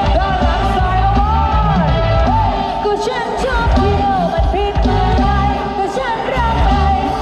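A Thai lam sing song played loud through an outdoor mini sound-truck speaker rig: a singer's voice sliding between notes over a heavy, pulsing bass beat.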